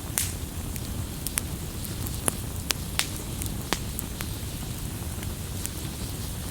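Wood bonfire crackling: sharp pops and snaps of burning wood over a steady low rumble of the flames. The snaps come thickest in the first four seconds and thin out after.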